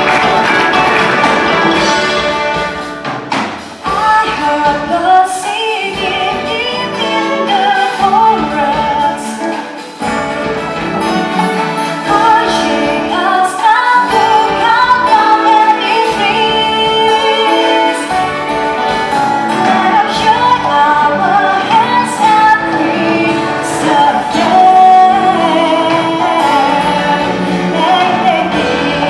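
A song performed live: female voices singing a melody over instrumental accompaniment.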